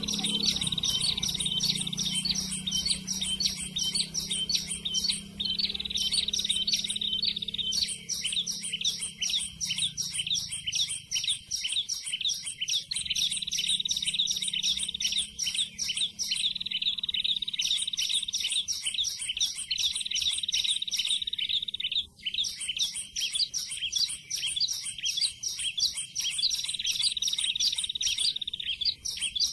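Prenjak (prinia) song played from an MP3 as a trapping lure: rapid high ticking notes alternating with held high whistles, repeating over and over without a break.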